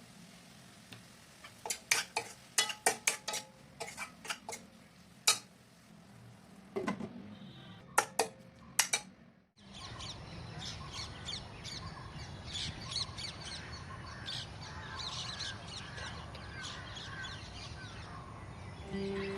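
A run of sharp clinks and knocks like dishes and utensils being handled, which stops abruptly about halfway through. After that come many birds chirping and calling, with crows among them, over a steady background hiss.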